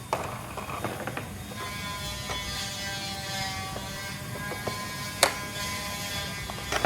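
Small electric motors whirring, their steady pitch jumping to a new note every second or so, with a few sharp clicks; the loudest click comes a little after five seconds in.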